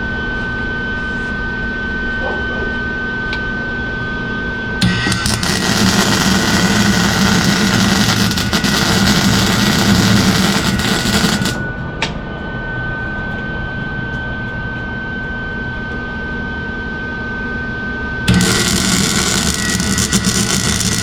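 Welder laying weld beads to join solid round slider pegs to a mini bike frame. Two runs of dense crackling arc noise start and stop abruptly: one about five seconds in, lasting some seven seconds, another starting near the end. A steady high-pitched whine runs underneath.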